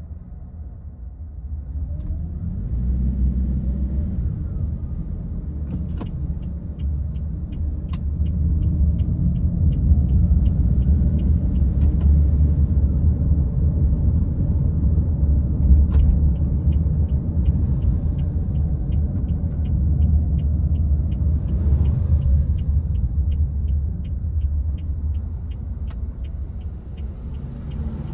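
Car driving, with a steady low rumble of engine and road noise that swells a couple of seconds in. For two stretches a regular light ticking comes in, about two and a half ticks a second, and a few sharp clicks are heard.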